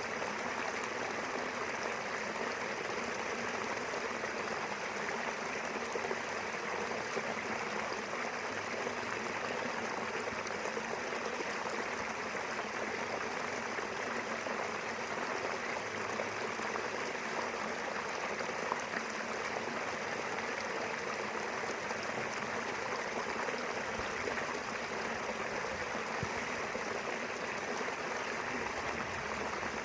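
Small river flowing steadily, an even rushing of water.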